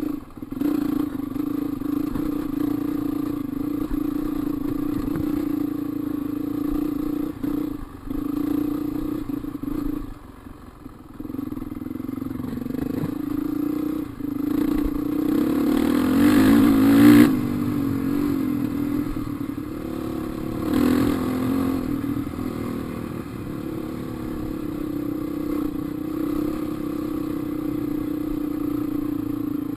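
Dirt bike engine running while riding, the throttle eased off briefly about ten seconds in, then opened up to a louder peak around two-thirds of the way through before settling back to a steady run.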